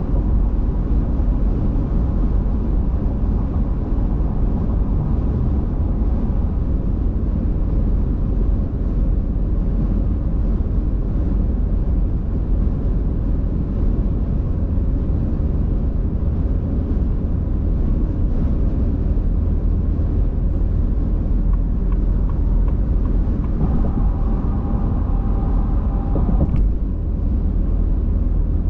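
Steady low rumble of a car driving on the road, mostly tyre and road noise with engine hum. Near the end a faint steady tone sounds for about three seconds and stops with a click.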